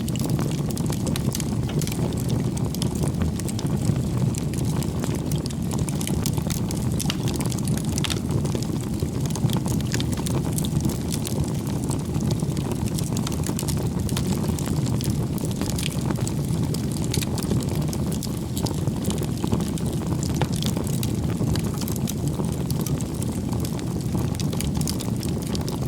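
Wood campfire burning steadily: a low rush of flame with frequent small crackles and pops from the burning logs.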